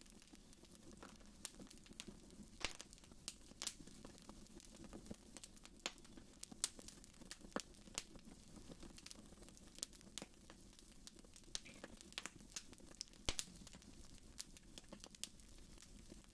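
Wood fire crackling in a fireplace: irregular sharp pops and snaps, a few louder ones about six and a half and thirteen seconds in, over a faint low rumble of the flames.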